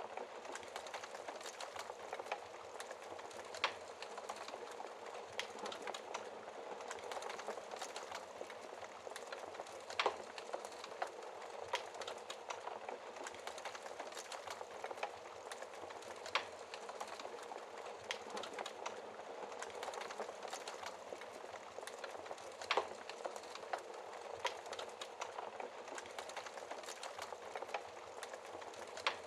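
Wood fire crackling in a fireplace: a dense run of small ticks, with a few louder sharp pops spaced several seconds apart. Under it is a steady hiss of rain.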